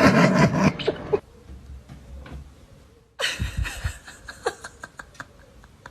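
A person laughing, in two bursts: one at the start lasting about a second, another about three seconds in, with a few scattered clicks after it.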